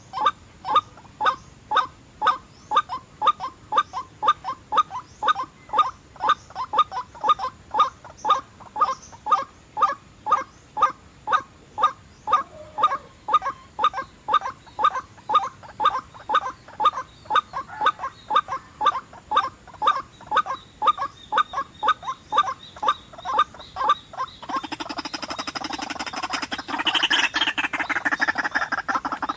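White-breasted waterhen (ruak-ruak) calls: a monotonous short note repeated about two to three times a second. About 24 seconds in it changes to a louder, denser, rapid croaking chatter.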